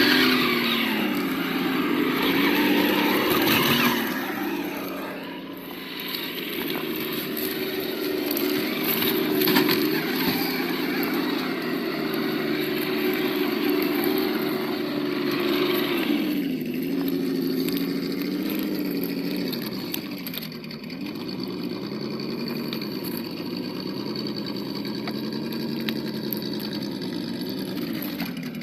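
Engine-sound module of an Absima Yucatan 1:8 RC crawler playing a simulated engine, its pitch dipping and rising again and again as the throttle changes, over a noisy hiss that is strongest in the first few seconds.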